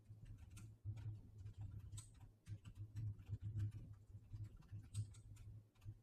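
Faint, irregular sharp clicks over a steady low hum.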